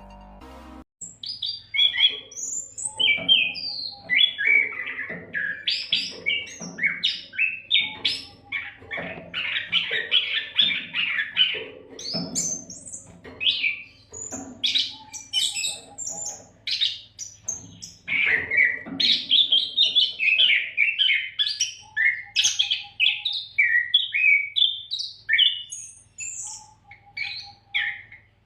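Oriental magpie-robin (kacer) singing without pause: a rich, varied stream of loud whistles, trills and chattering phrases.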